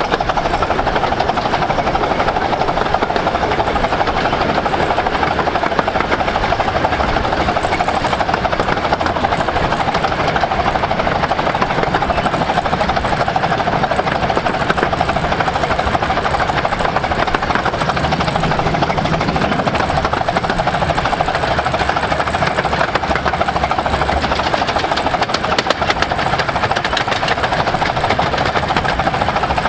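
Romney, Hythe & Dymchurch Railway's No.5 Hercules, a 15-inch-gauge miniature steam train, running along the line: a steady, loud mix of rapid clatter and rushing noise with no pause.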